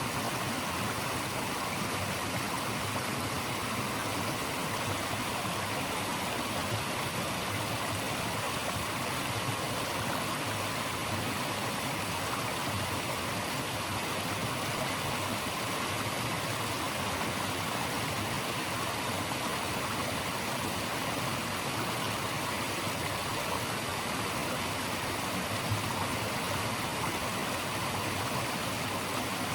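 Steady rushing of flowing water from a stream, an even, unbroken hiss with no distinct events.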